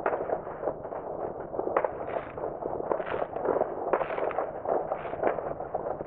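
Distant fireworks: a continuous clatter of many overlapping bangs and crackles, with a few louder cracks standing out every second or so.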